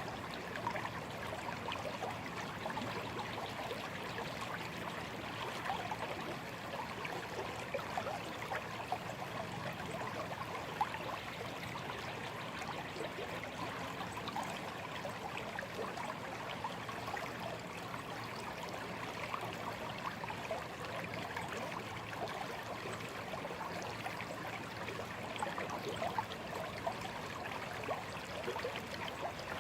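Small stream flowing steadily, water trickling and splashing over stones with many tiny bright splashes.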